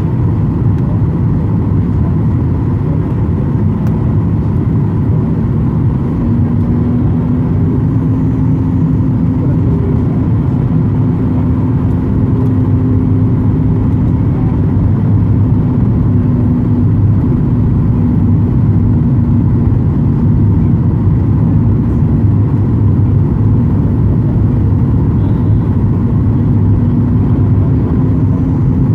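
Steady low rumble of a Ryanair Boeing 737 airliner heard inside the cabin, with a steady hum joining in about six seconds in.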